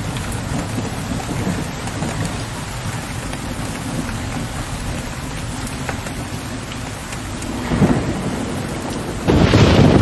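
Steady rain falling, with a low rumble of thunder underneath. A short swell of thunder comes near the end, then a sudden, much louder crack of thunder.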